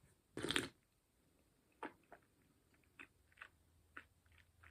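Faint mouth and mug sounds of someone taking a first sip of freshly brewed tea: a short noise near the start, then a scatter of small, soft clicks.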